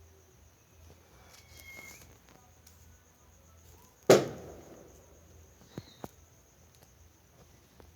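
A small firecracker goes off with a single sharp bang about four seconds in, the loudest sound by far, trailing off quickly. A faint steady high-pitched tone and a few light clicks sit underneath.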